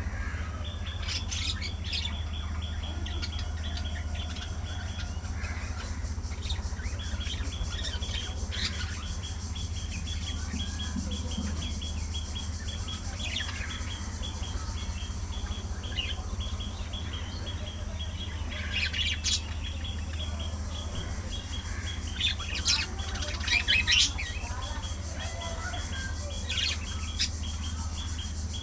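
Budgerigars chirping and chattering, with a few louder sharp calls near the middle and in the last third, over a steady low hum.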